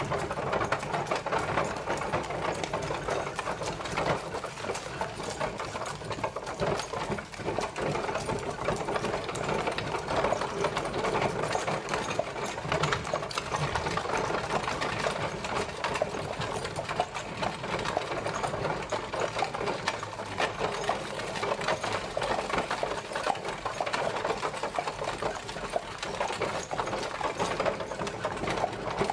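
Horse-drawn carriage on the move: a steady, fast clatter and rattle of its wheels and body.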